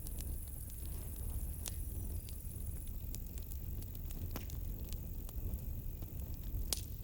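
Campfire crackling: scattered sharp pops and snaps over a low steady rumble, with a high thin cricket trill that stops about three seconds in.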